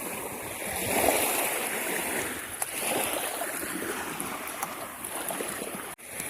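Sea waves washing onto the shore, swelling about a second in. The sound cuts out for an instant near the end.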